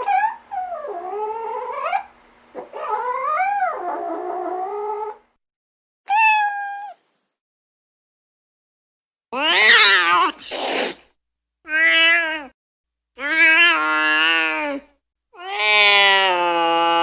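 A string of separate cat meows, about eight calls spliced from different recordings with short silences between them. The calls bend up and down in pitch, and the last one is long and drawn out.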